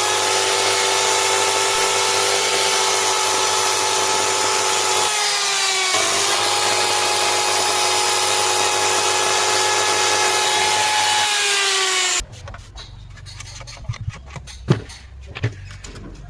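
Handheld marble cutter's electric motor running free at full speed with a steady high whine; about five seconds in its pitch sags and then comes back up. About twelve seconds in it cuts off suddenly, leaving quieter scattered knocks and clatter.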